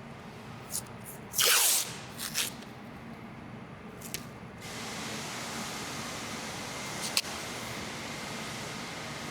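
Compressed air from a body-shop air gun: a few short hissing blasts, the loudest about a second and a half in with a falling pitch, then a steady hiss from about halfway through, broken once by a sharp click.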